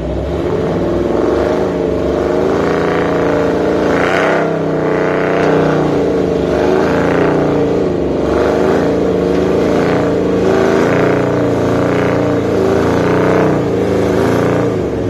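Truck engine running hard under heavy load, straining to pull a trailer up a hill. Its pitch wavers up and down, with a louder surge about every second and a half.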